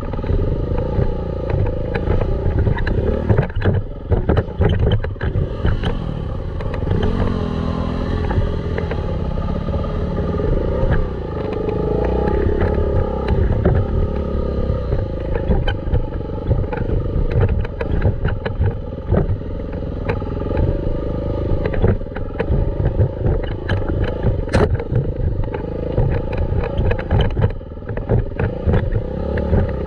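Dirt bike engine running under way, its revs rising and falling, with frequent knocks and rattles.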